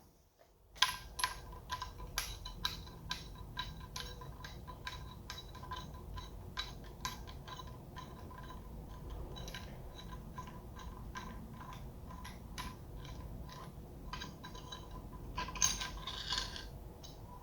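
Hand ratchet clicking in a steady run of light metallic ticks, a couple a second, as bolts holding the VANOS units on a BMW N20 engine are undone.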